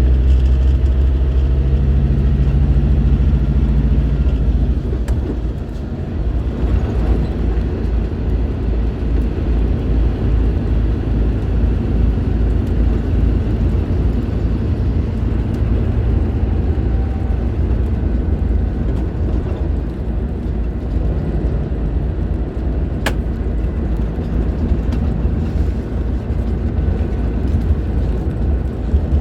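Scania K310IB bus diesel engine running hard, its note dropping away about five seconds in as the load eases or a gear changes, then running on steadily at lower revs. A single sharp click sounds near the end.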